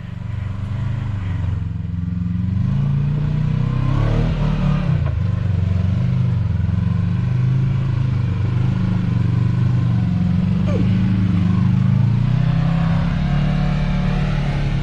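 Side-by-side UTV engine running at low speed over rocks, its pitch rising and falling as the throttle is worked.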